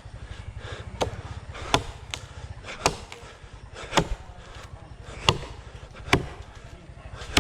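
Blade chopping into dry jackfruit wood: about eight sharp, separate strokes at an uneven pace, over a low steady hum.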